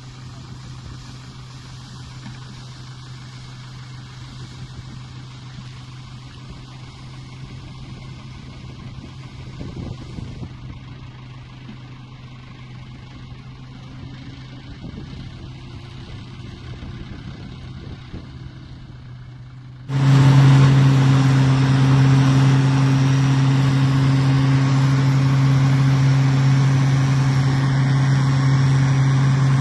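An engine running at a steady pitch, fairly quiet at first, then abruptly much louder about twenty seconds in.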